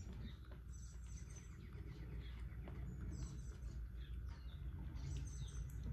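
Close-up eating sounds: chewing and wet mouth smacking on spicy noodles and octopus, a string of small clicks and squelchy high smacks over a low steady hum.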